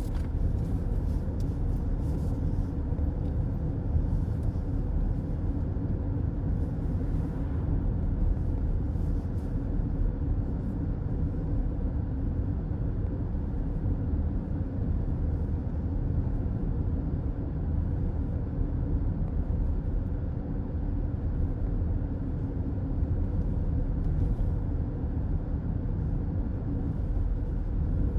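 Steady road noise inside a moving car's cabin: a low rumble from the tyres and engine.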